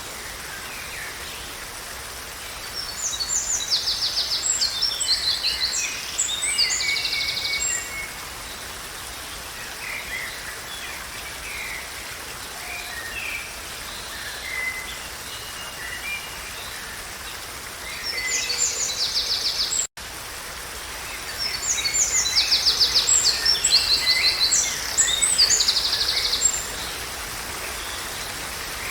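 A songbird singing two long, loud phrases of rapid trills and chirps, the second near the end, with quieter calls in between, over a steady background hiss of moving water. The sound cuts out for an instant about two-thirds of the way through.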